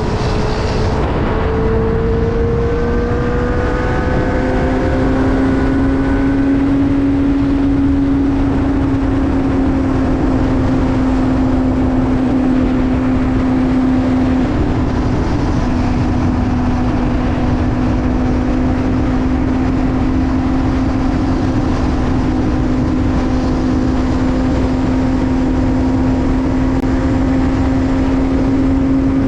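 Benelli TNT 600i's inline-four engine under way, its pitch rising over the first few seconds and then holding steady while cruising.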